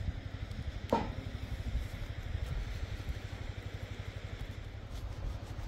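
Car engine idling steadily, a low even pulsing rumble. About a second in, a short sound slides down in pitch over it.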